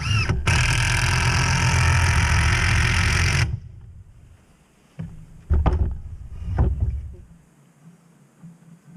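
A power tool runs steadily for about three and a half seconds and then stops, followed by a few short knocks or bursts of handling during woodworking on the door framing.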